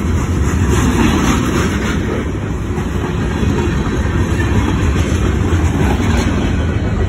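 Freight train rolling past, its cars rumbling steadily along the track.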